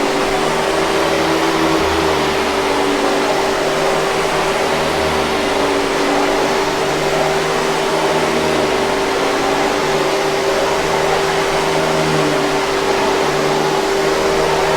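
Hoover 5000 Series canister vacuum cleaner running steadily: an even motor whine over a broad rushing hiss, with a slow wavering in its low hum.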